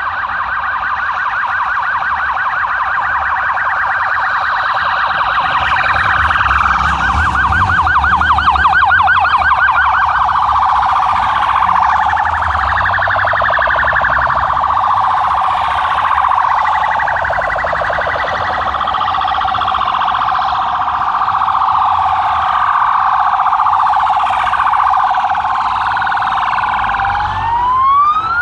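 Police sirens sounding together, fast warbling yelps overlapping one another, with a slower rising wail near the end, over a low rumble.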